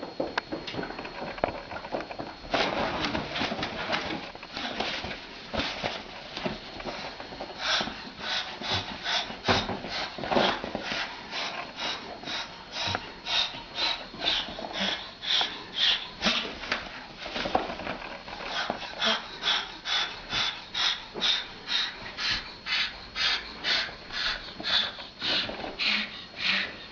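A parrot making short, sharp calls over and over, irregular at first, then from about eight seconds in settling into a steady rhythm of about two a second.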